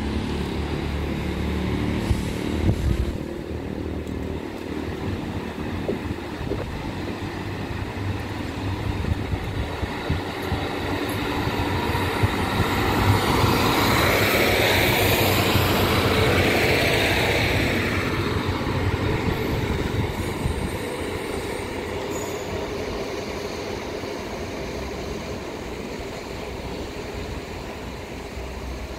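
GWR diesel multiple unit running along the line, its diesel engine droning, growing louder as it passes about halfway through and then fading away.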